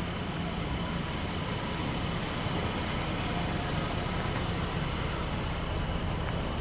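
Steady night chorus of crickets, a constant high-pitched drone, over the low steady hum of an idling vehicle engine.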